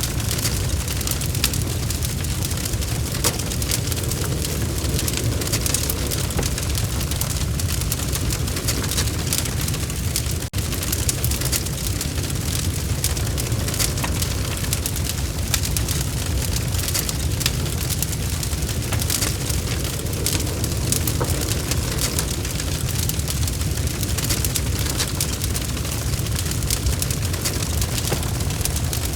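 Log fire burning in a fireplace: a steady low rumble with dense, continuous crackling and popping, with a momentary dropout about ten seconds in.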